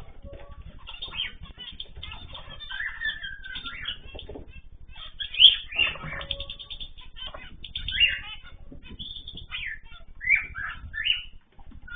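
Small pet cage birds chirping and calling, with a steady busy twitter and louder short calls every couple of seconds.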